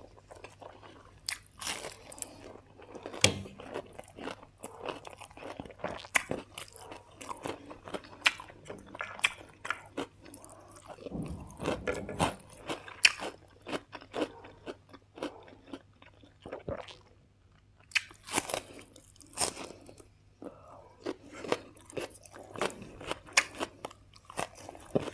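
Close-up eating sounds: a person biting and chewing crunchy food, with many small crunches and mouth clicks, and a short pause about 17 seconds in.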